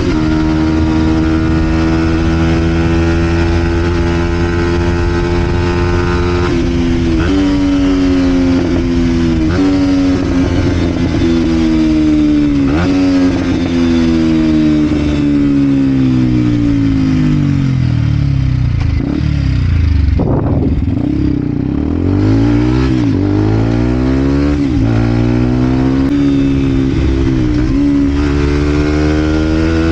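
Vent Derapage 125 four-stroke single-cylinder engine running through a full Scalvini exhaust as the bike is ridden. It holds a steady note at first, then goes up through a few gears with the pitch stepping at each shift. The engine note falls slowly as the bike slows, then revs up and shifts through the gears again near the end.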